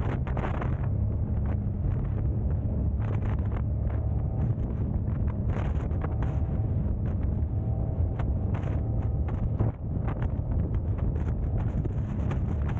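Car driving, with a steady low road and engine rumble under wind buffeting and crackling on the microphone.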